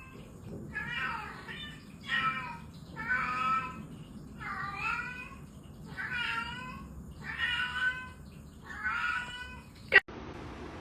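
A domestic cat meowing over and over, about seven drawn-out meows a little over a second apart, followed by a sharp click near the end.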